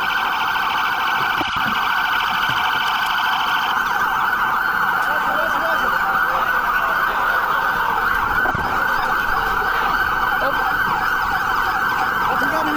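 Several police sirens wailing at once, their rising and falling tones overlapping. A fast-pulsing siren tone stops about four seconds in.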